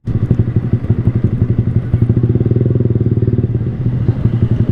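Sport motorcycle's engine running at low revs in second gear while rolling slowly through traffic, a steady, low exhaust note with rapid, even pulsing.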